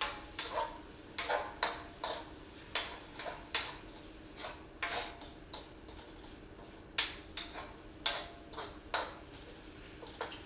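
A utensil clicking and scraping against a wok while food is stirred in it: irregular bunches of sharp clicks, with a brief lull about two-thirds in. A faint steady hum runs underneath.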